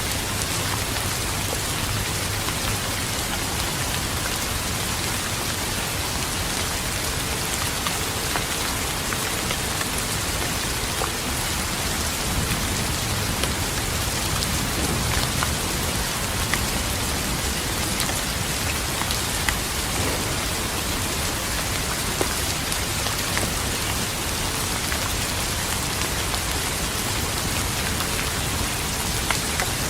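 Steady heavy rainfall, a continuous hiss of rain with scattered sharp ticks of individual drops hitting a surface.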